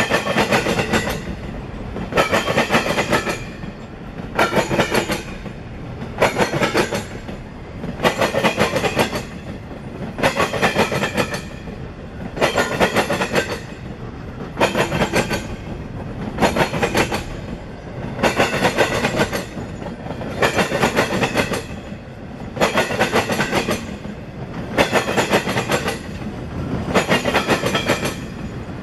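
Double-stack container train rolling past, its wheels clattering over the track in a regular rhythm: a loud burst about every two seconds as car after car goes by, over a steady low rumble.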